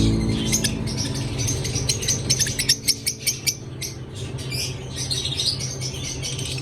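Lovebirds chattering: many quick, sharp chirps in a dense flurry, busiest in the middle, over a steady low hum.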